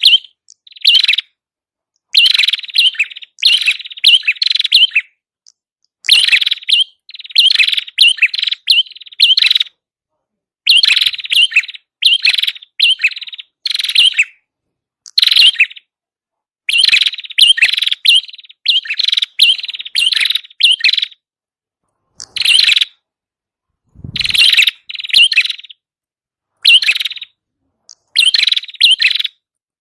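Small songbird sold as 'prenjak kepala merah' (red-headed prenjak) singing in repeated bursts of rapid, high chirping, each about a second long with short pauses between. A brief low thump comes about 24 seconds in.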